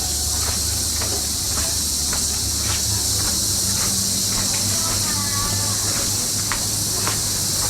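Steady high-pitched chirring of insects, with a low hum beneath it and faint distant voices.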